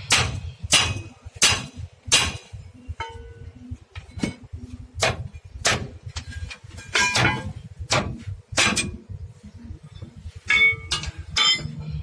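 Hammer blows on the steel leaf spring of a Tata truck under repair: a run of sharp metal strikes, the first four evenly spaced about two-thirds of a second apart, then more irregular blows, some leaving a short metallic ring.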